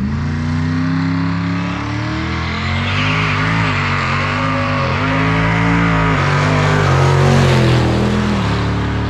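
Drag-race car's engine at full throttle, launching and accelerating down the strip. Its pitch climbs, dips back at gear changes about three, five and eight and a half seconds in, and climbs again.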